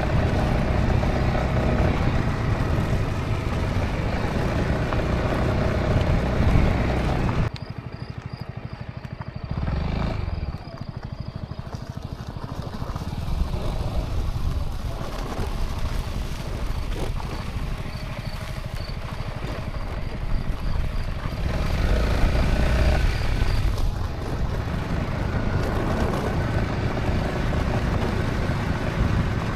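Honda ADV350 scooter's single-cylinder engine running under way, with wind and road noise. The noise drops sharply about seven seconds in and builds back up again over the following several seconds.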